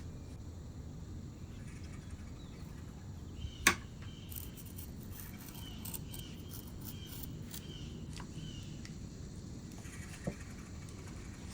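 Steady low hum with a sharp click about four seconds in and a softer one near the end, and between them a run of faint, short high chirps repeating about twice a second for a few seconds.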